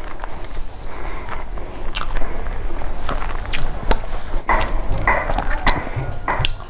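Close-miked mouth sounds of a person chewing a full mouthful of food, with many short wet clicks and smacks.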